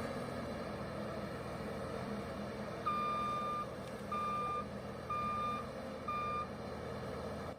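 A heavy machine's reversing alarm beeps four times, about once a second, over the steady hum of its diesel engine running.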